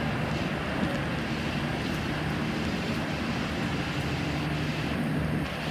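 Steady low hum and rumble of a train standing at a station platform, with a short dip near the end.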